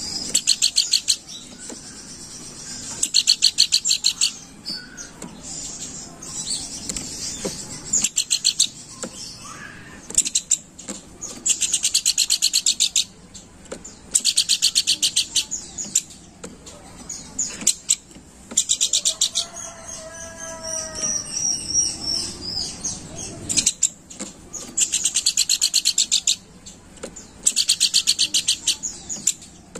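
A pelanduk bukit babbler chattering in repeated bursts of rapid, high-pitched trilled notes, each burst lasting a second or two and coming every few seconds. About two-thirds of the way through, a lower, pitched series of notes and a wavering high whistle come in for a few seconds.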